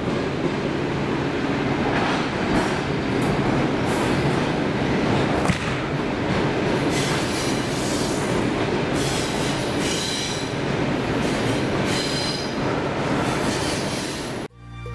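Passenger coaches rolling slowly along a platform track: a steady rumble of wheels with scattered clicks over the rail joints and brief high wheel squeals later on. The sound drops away suddenly just before the end.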